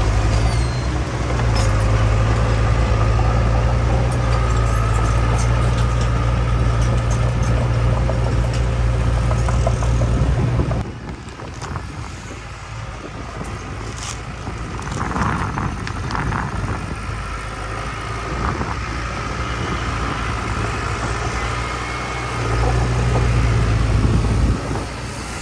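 Heavy diesel earthmoving machinery working: a loud, steady, deep engine drone for about the first eleven seconds that cuts away abruptly, leaving a quieter mix of engine and clanking, then swells again briefly near the end.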